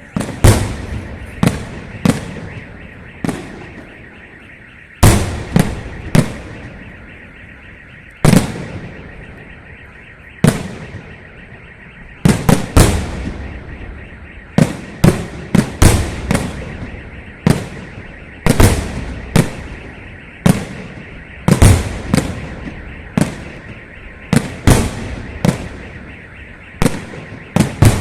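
Festive fireworks salute: a string of loud bangs from shells bursting overhead, unevenly spaced and often two or three in quick succession, each followed by a trailing echo.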